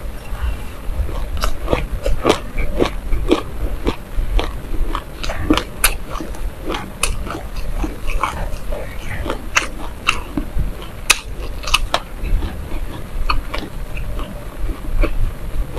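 Close-miked biting and chewing of a ball coated in black and white sesame seeds: a steady run of small, sharp, irregular crunches and crackles of the seeds, a few a second.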